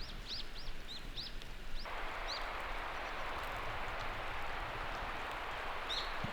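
Small songbirds chirping: a quick run of short, high, arched calls in the first couple of seconds and one more near the end, over a steady outdoor hiss that comes in abruptly about two seconds in.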